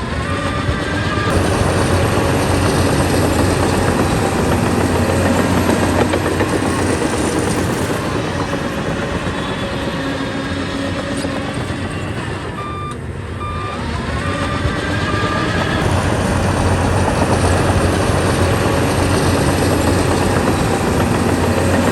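Heavy earthmoving machine's diesel engine running steadily under load. A reversing alarm beeps briefly near the start and again about halfway through.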